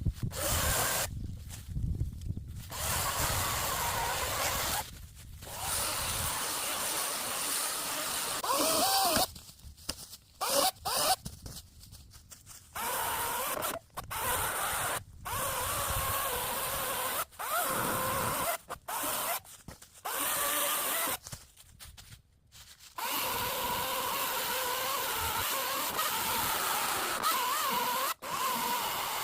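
Power saw cutting through oak wood, its motor note wavering under load, in a series of stretches a few seconds long that start and stop abruptly.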